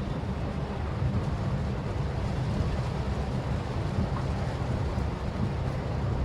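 Maruti Suzuki Swift Dzire driving on a rain-wet road: steady low road and engine rumble with tyre hiss.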